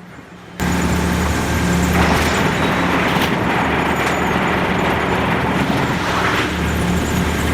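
Sawmill trim-saw line machinery running: a loud steady mechanical din with a low electric-motor hum, starting abruptly about half a second in, with a few brief knocks in it.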